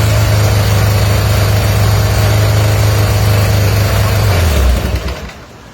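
Air-cooled flat-twin boxer engine of a freshly restored 1978 BMW R80/7 motorcycle running steadily, then slowing about four seconds in and dying away near the end.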